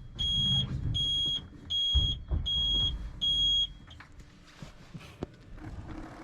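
An electronic warning beeper giving a regular series of high, clear beeps, about four every three seconds, five in a row, then stopping a little past halfway. Low rumbling and knocking noise runs underneath.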